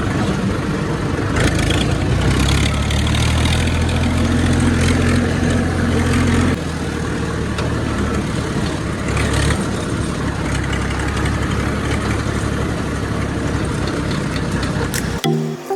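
Heavy diesel engine running. It works harder and louder from about two seconds in, then eases off abruptly at about six and a half seconds and keeps running steadily. Music cuts in just before the end.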